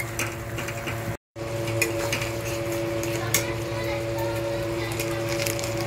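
Ground masala paste frying in oil in a metal kadai, sizzling, as a metal spatula stirs it and clicks and scrapes against the pan now and then. The sound drops out briefly about a second in, and after that a steady hum of several tones runs beneath the frying.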